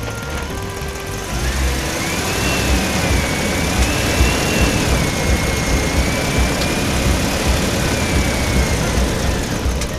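Vehicle engine sound, a steady noisy run with uneven low pulsing and a high whine that wavers up and down. A few short stepped notes sound in the first second or so.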